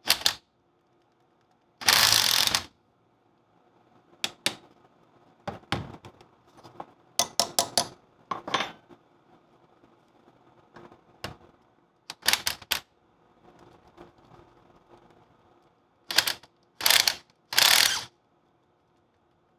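Ratchet wrench clicking in short spells, about ten of them with pauses between, while undoing the steering arm bolts on a Land Rover Series 2 swivel housing.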